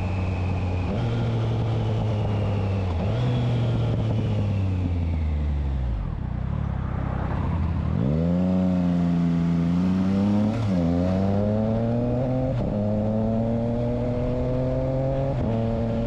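Triumph Trident 660's three-cylinder engine through a Spark exhaust with the dB killer fitted, on the move: the engine note falls away over the first six seconds, then climbs hard from about eight seconds in, rising through the gears with three short breaks for the shifts.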